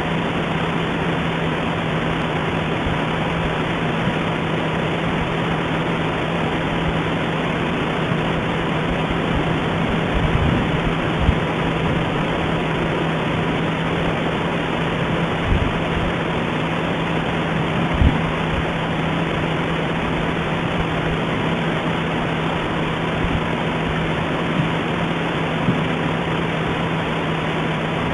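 Steady hiss with a low steady hum and a faint high tone, broken by a few faint low thumps.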